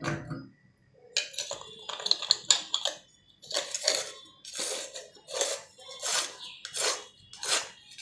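A knock, then hard clattering, then a run of rhythmic scraping strokes, about one and a half a second, from hand tools at work.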